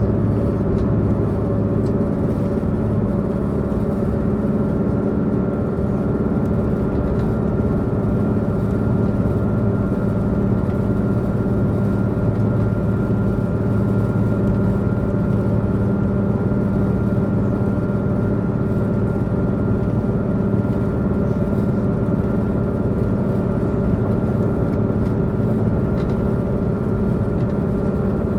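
Diesel engine of a Tze-Chiang express diesel multiple unit running steadily as the train travels, heard from inside the passenger car at a side window, with an even hum.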